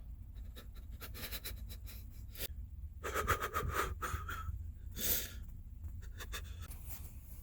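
Close rustling and clicking handling noises, with a person's breathing.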